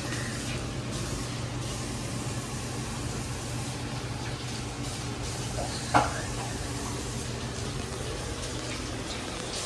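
Steady low hum and hiss of a kitchen during cooking, with one sharp clink of cookware about six seconds in.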